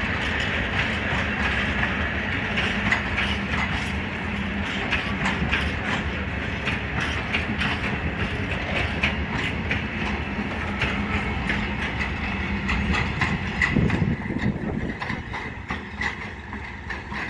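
Freight train wagons rolling past on the track: a steady rumble of wheels on rail with many irregular clicks and knocks, and a high steady squeal over it. The sound eases off toward the end.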